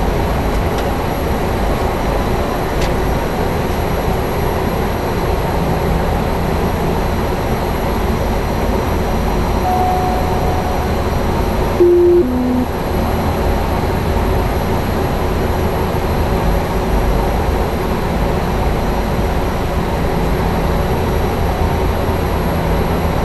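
Cessna Grand Caravan EX's PT6A turboprop engine running steadily at ground idle, heard from inside the cockpit with a constant high whine. About twelve seconds in, a short electronic two-note tone sounds, the second note lower than the first.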